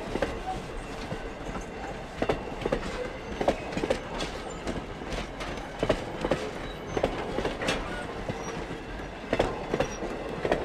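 Wooden passenger coaches of a train rolling steadily past, their wheels clacking and knocking over the rail joints in irregular sharp clicks over a continuous rumble.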